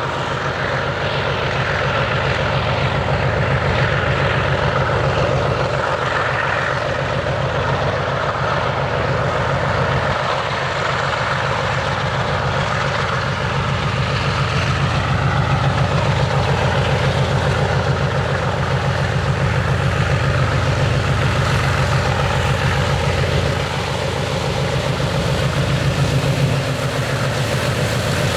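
Diesel freight locomotives running under load: a loud, steady deep engine drone with a fast, even pulse, easing briefly near the end.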